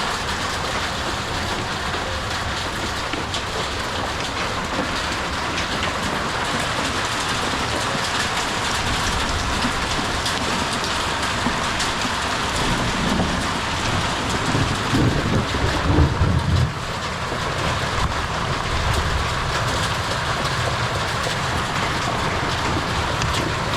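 Hail drumming steadily on a chicken coop's roof in a hailstorm, a dense, even clatter with no let-up. A low rumble of thunder swells in the middle.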